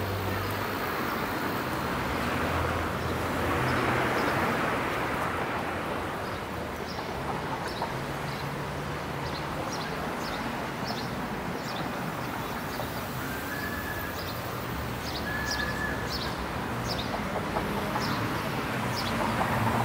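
Street traffic passing, with a small bird chirping in short, high notes again and again through most of the stretch.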